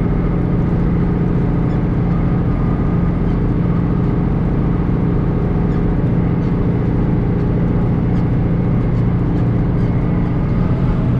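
John Deere 2940 tractor's diesel engine running steadily while pulling a rotary hay rake.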